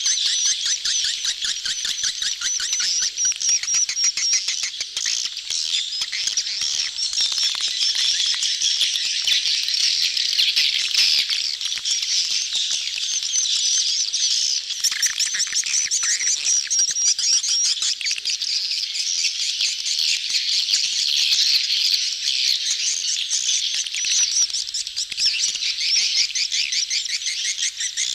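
A dense crowd of swiftlets calling together without pause: overlapping rapid, rattling high chirps of a swiftlet colony in courtship. This is the kind of recording played to lure swiftlets into a nesting house.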